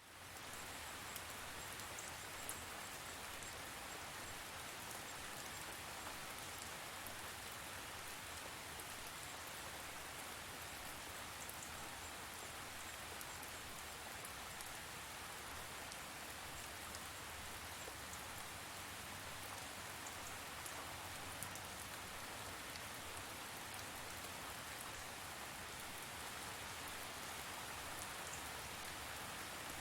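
Steady rain falling, with scattered sharp drops ticking on a surface.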